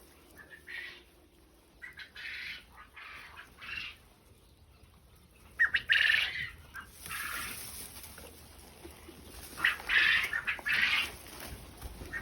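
Quail calling in short bursts spread through the clip, the loudest about six seconds in and again around ten seconds.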